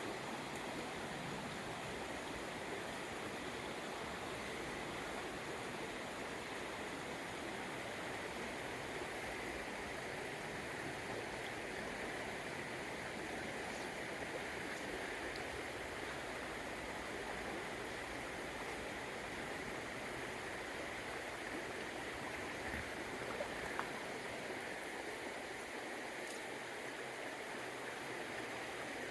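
Water of a small upland stream running over stones: a steady, even rush.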